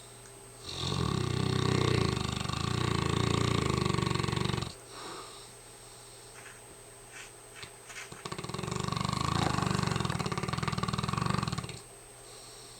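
Mastiff snoring: two long snores of about four seconds each, with a quieter stretch of breathing between them.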